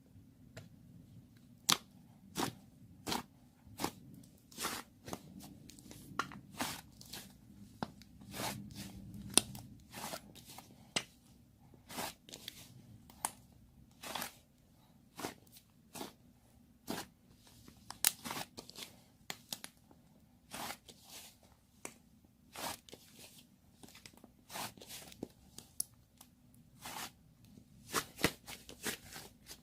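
Strawberry whipped-cream slime being pressed and stretched by hand, giving irregular sharp pops and crackles about one or two a second.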